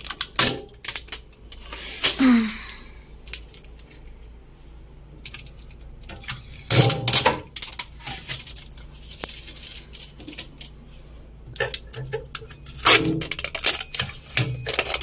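Packing tape being pulled off the plastic shelves and fittings inside a new refrigerator, with a short tearing rip about two seconds in and scattered clicks and clattering knocks of plastic parts being handled.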